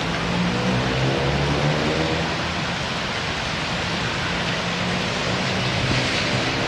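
Heavy rain pouring steadily, with the low hum of an engine running beneath it and rising slightly in pitch early on.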